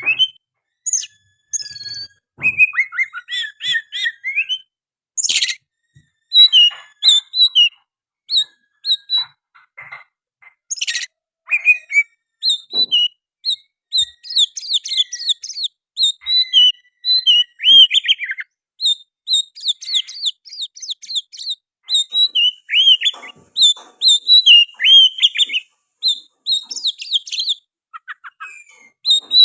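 Oriental magpie-robin singing loudly in rapid, varied phrases of whistles and chirps with short pauses, its song filled with mimicked sooty-headed bulbul calls. A couple of harsh, rasping notes come about five and eleven seconds in.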